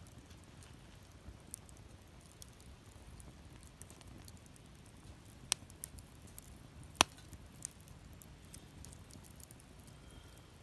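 Wood fire burning in a fire pit, crackling with scattered small pops and a few sharper snaps around the middle, the loudest about seven seconds in, over a low steady rumble.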